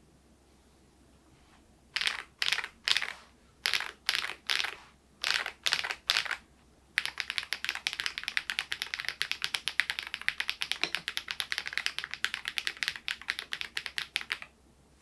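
SMURVE80 retro mechanical keyboard being typed on: nine single keystrokes in three groups of three, then several seconds of fast continuous typing that stops shortly before the end.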